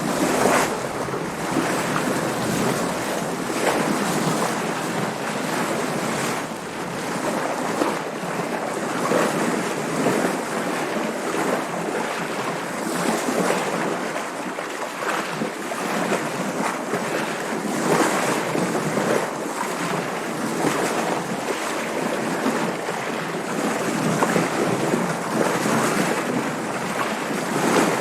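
Water splashing and washing against a sailing boat's hull, with wind noise, in continual irregular surges every second or two.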